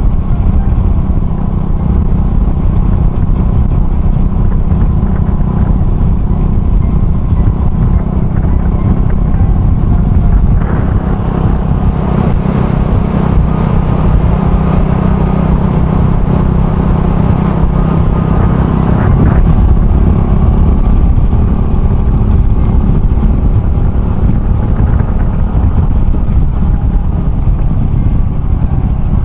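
Honda Cross Cub 110's single-cylinder engine running steadily while riding, through an aftermarket RPM Raptor exhaust, with road and wind noise.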